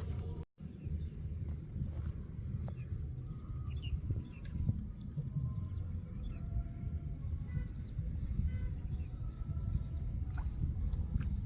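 Rural outdoor ambience: birds chirping here and there over a low rumble, with a steady high-pitched ticking repeating about three times a second.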